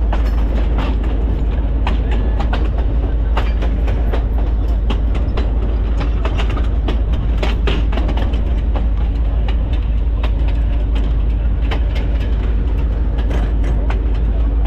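Diesel locomotive of a passenger train running along the track, heard from its cab: a steady heavy low rumble with irregular clicks and knocks of the wheels over the rails.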